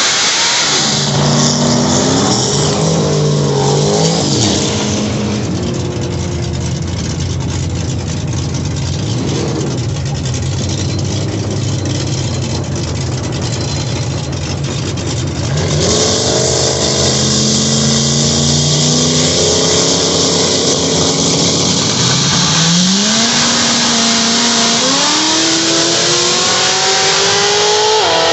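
A 2004 Corvette drag car's engine: revved unevenly at first, then running steadier, then accelerating with its pitch climbing in stages over the last dozen seconds.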